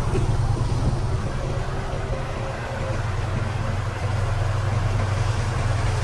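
Diesel engine of heavy earthmoving equipment running steadily, a continuous low drone with no clear revving.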